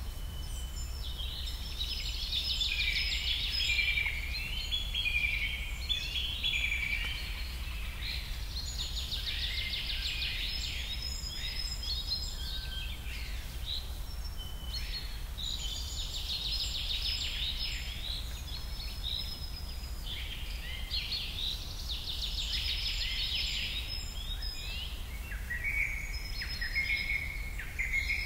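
Birds chirping and singing, many short overlapping calls and trills coming in clusters, over a steady low hum.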